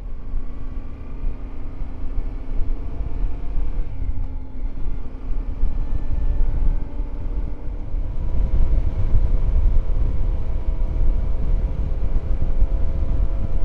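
Yamaha Ténéré 700's parallel-twin engine running under way as the motorcycle rides along, over a heavy low rumble. It gets louder about eight seconds in.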